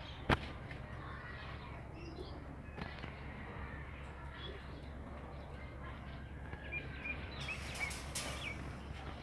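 Faint bird chirps over a steady low hum, with a sharp click about a third of a second in; near the end a cluster of short chirps comes with scratchy rustling.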